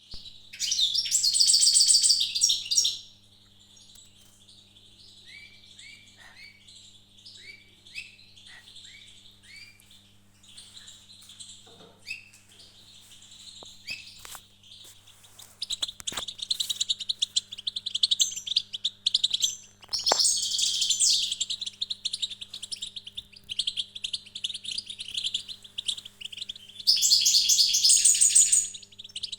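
Small songbirds singing: a continuous high trilling song, with loud rapid chattering bursts near the start and near the end and short down-slurred chirps in between.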